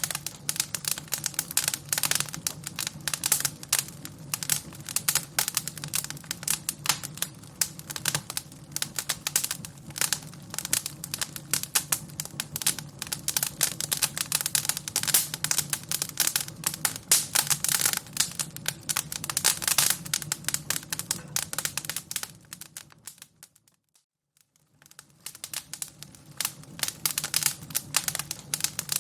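Fire crackling: a dense run of sharp pops and snaps. About 23 seconds in it fades almost to silence for a second or two, then comes back.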